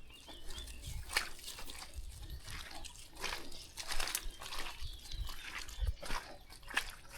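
Irregular crunching and rustling of footsteps and dogs moving over a dry country path and foliage.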